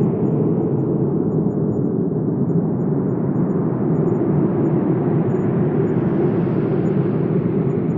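Wind blowing as a steady low rushing noise. It eases slightly about two seconds in and swells again a few seconds later.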